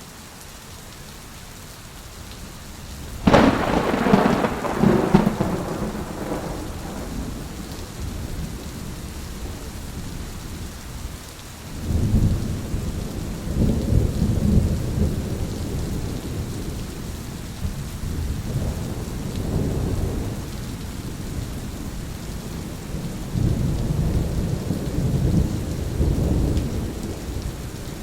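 Thunderstorm with steady rain falling: a sharp thunderclap about three seconds in that rumbles away over a few seconds, followed by long, low rolls of thunder later on.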